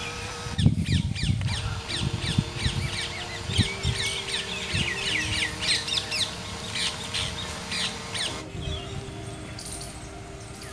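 Birds chirping in rapid, repeated short calls that stop about eight seconds in.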